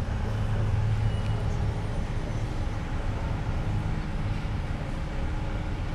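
1996 Toyota Corolla's 1.8 L 7A-FE four-cylinder engine idling steadily with a cylinder 1 misfire, caused by spark arcing out through the seam of a failing spark plug wire.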